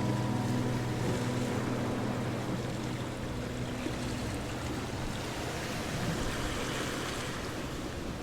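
Ocean waves washing in, a steady hiss of surf that swells a little about two-thirds of the way through. The last notes of a guitar ring out and fade in the first few seconds.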